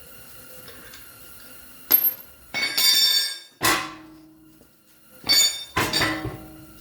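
Metal parts and tools clinking and clanking as the wheels come off: several sharp metallic hits, a few of them ringing briefly, between two and six seconds in.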